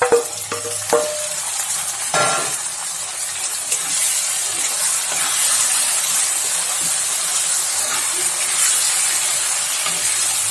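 Broiler chicken pieces frying in hot oil with browned onions in a pan, sizzling steadily. A few sharp knocks come near the start, and there is a short louder clatter about two seconds in.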